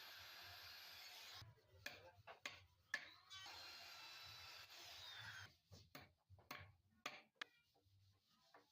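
Hammer tapping nails into wooden drawer boards: two runs of sharp knocks, the loudest about three seconds in, between stretches of steady hiss.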